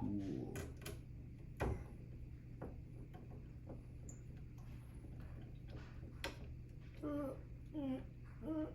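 Scattered small clicks and taps of hands handling PC parts while an M.2 SSD is fitted, one louder click about a second and a half in, over a steady low hum. A few short mumbled sounds near the end.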